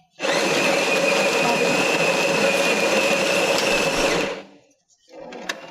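Built-in grinder of a Jura X9 automatic coffee machine grinding fresh coffee beans for an espresso: a steady, loud motor-and-grinding noise with a high whine, lasting about four seconds and then stopping.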